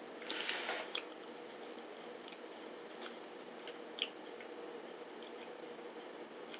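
Faint chewing of a spicy pork and beef snack stick: quiet wet mouth sounds with scattered small clicks. A short breathy hiss comes in the first second.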